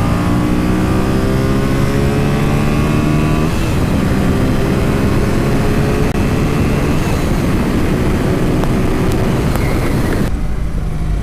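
A 1983 Honda Sabre VF750S's 750cc V4 engine accelerating. Its pitch rises, drops at a gear change about three and a half seconds in, then climbs again more slowly, with wind rushing over the microphone that eases near the end.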